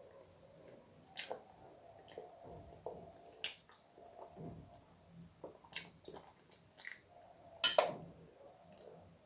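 Close-up eating sounds of starch with okra soup: a string of short wet smacks and squelches, with one louder click near the end.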